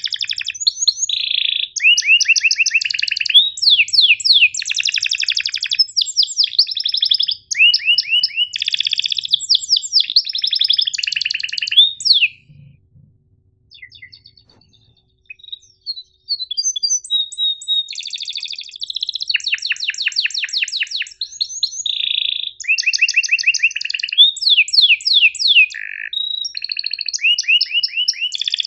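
Domestic canary singing a long, loud song of rapid trilled rolls and sharp high chirps, with a pause of a few seconds of scattered faint notes just before the middle.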